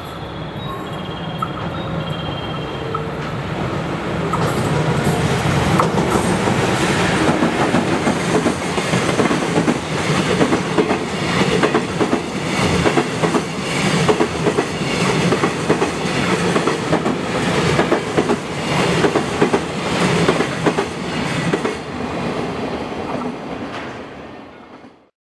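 A freight train of container wagons passing close by, its wheels clattering over the rail joints in a fast, even rhythm. The sound builds over the first few seconds, holds steady, and cuts off suddenly near the end.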